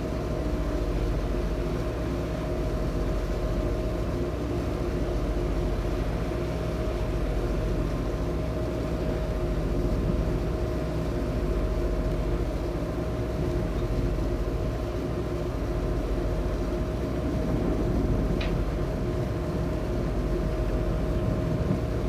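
Engines of the high-speed passenger ship Sun Liner 2 running steadily underway, a constant drone with a steady hum, heard on board.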